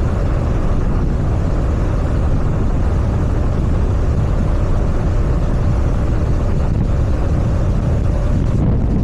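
Motorcycle on the move: steady wind rush over the microphone, heaviest in the low end, with a faint steady engine tone underneath.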